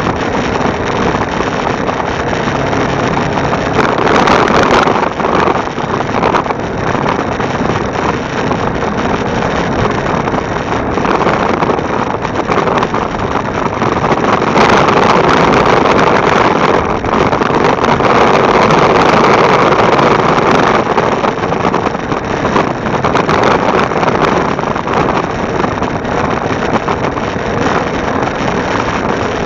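Motorcycle engine running while riding, with heavy wind noise on the bike-mounted microphone; it swells louder about four seconds in and again around the middle.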